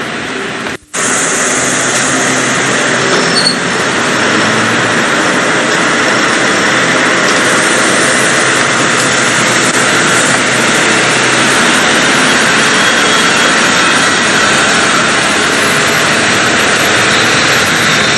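A passenger train standing at the platform, heard close beside its couchette car, runs with a loud, steady, even noise. The sound drops out for a moment about a second in, then carries on unchanged.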